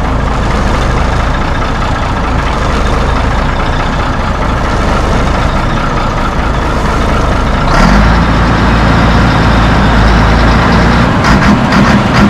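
1964 Mack B-model truck engine running at idle, then picking up about eight seconds in to a louder, heavier run with an uneven pulsing near the end.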